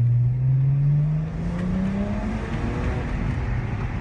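BMW 335i turbocharged inline-six accelerating, its note rising steadily in pitch for about two seconds, then breaking into a rougher, steadier rumble. There is no blow-off valve whoosh: the car is still on its stock charge pipe.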